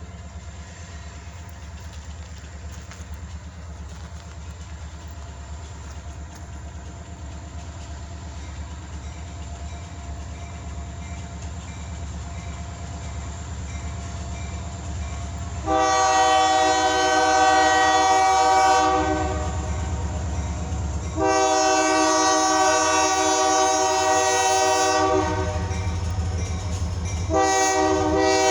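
EMD SD40-2 diesel locomotives approaching, their 16-cylinder engines a low rumble growing steadily louder. Just past halfway the multi-note horn sounds two long blasts, and a third begins near the end, the pattern of a grade-crossing signal.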